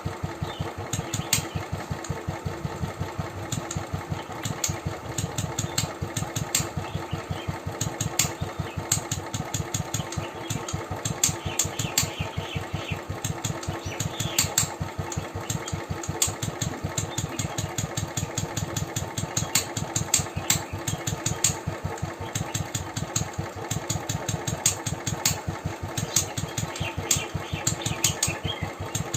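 Royal Enfield motorcycle engine idling at a steady beat, with sharp ticks breaking in irregularly over it. The owner thinks the ticking comes from a loose decompressor.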